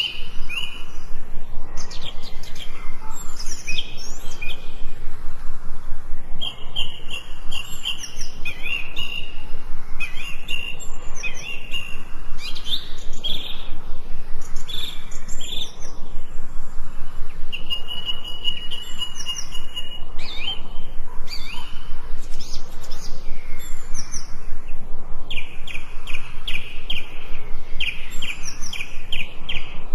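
Songbirds singing and calling, overlapping whistled phrases and trills. One bird holds a long steady whistle about two-thirds through, and a fast series of repeated notes comes near the end.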